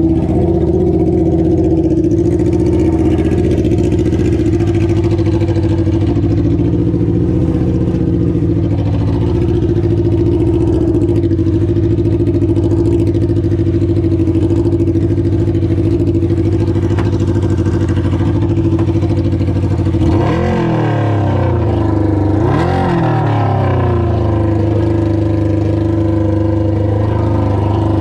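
A jet boat's 600cc engine running steadily on a test run of its new gear ratio, then blipped twice about two seconds apart near two-thirds of the way in, each rev rising and falling within about a second.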